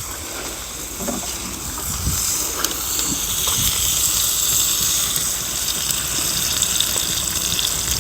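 Food sizzling on a hot iron griddle over a wood fire: a steady frying hiss that swells about two seconds in and then holds.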